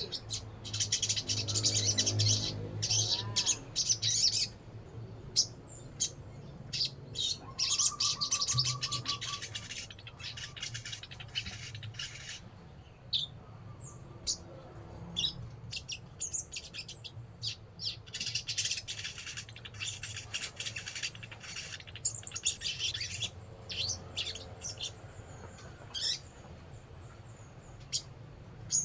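A sogon songbird singing a busy run of quick high chirps, whistled notes and short trills, with a steady low hum beneath.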